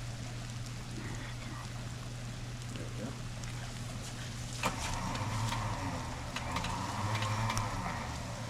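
Vehicle engine idling steadily, with a sharp click about halfway through, after which a rougher, higher-pitched whir joins the idle.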